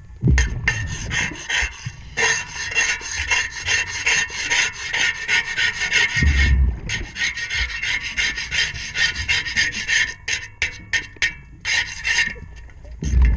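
Propeller being scrubbed underwater by a diver, fast rasping strokes against the blade, broken by short pauses, with low rumbles near the start, about six seconds in and at the end.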